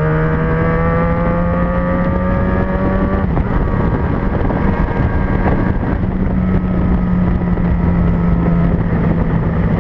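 Yamaha XJ6N's 600cc inline-four engine running steadily under way in traffic, with road and wind noise. During the first three seconds a second engine pitch rises slowly and then stops.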